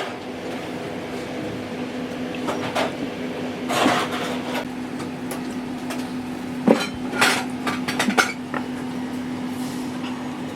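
Dishes and cutlery clinking and knocking every so often, with a cluster of clinks a little past the middle, over a steady low hum.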